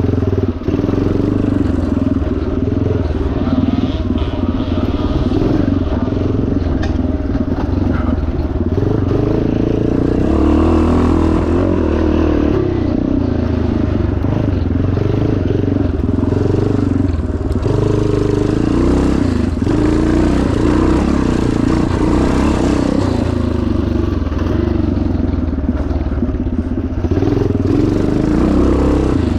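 1977 Yamaha TT500's single-cylinder four-stroke engine running hard under load, its revs rising and falling over and over with the throttle and gear changes.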